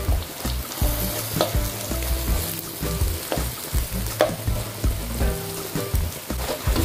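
Beaten egg and minced chicken sizzling in a wok while a slotted spatula stirs and scrapes through them, with irregular sharp clicks of the spatula against the pan.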